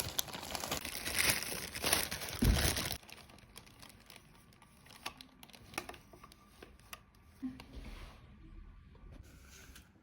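Crinkling and rustling of something being handled, dense for about the first three seconds, then fainter with scattered small clicks and rustles.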